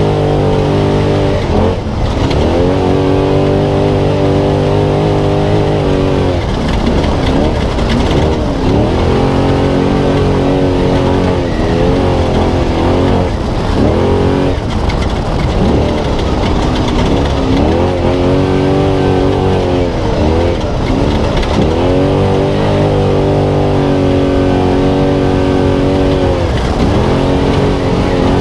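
Spec Trophy Truck's V8 engine racing flat out off-road, revs repeatedly climbing, holding and dropping off every few seconds as the driver shifts and lifts, over a constant rumble of tyres and chassis noise.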